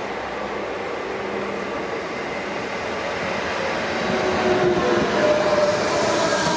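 Renfe Class 447 electric commuter train coming into the platform and passing close by. Wheel-on-rail noise carries an electric whine of several tones, and the sound grows louder about four seconds in as the train draws alongside.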